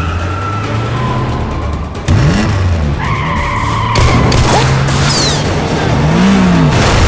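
Car chase sound effects: car engines revving up and down and tyres squealing, with film score music underneath. It gets suddenly louder about two seconds in, and the tyre squeal is strongest a little past the middle.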